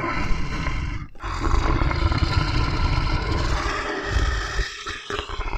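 Leopard roaring and growling in long rough stretches, breaking off briefly about a second in and again near the end.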